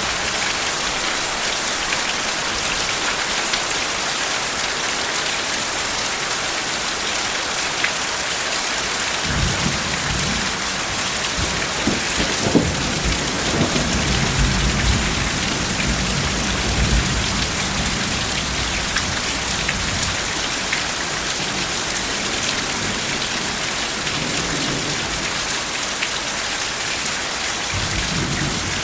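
Steady heavy rain falling, with a low rolling rumble of thunder building about nine seconds in, swelling for several seconds and fading away, and another soft rumble starting near the end.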